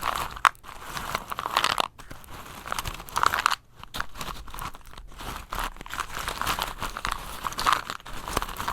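Close, irregular crunching and crinkling in uneven bursts, with short pauses between handlings.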